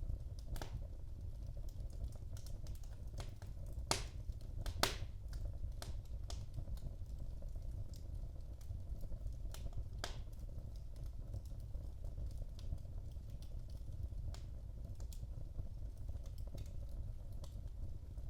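Wood fire burning in a fireplace: a steady low rumble of flames with scattered sharp crackles and pops, the loudest pair about four and five seconds in and another near ten seconds.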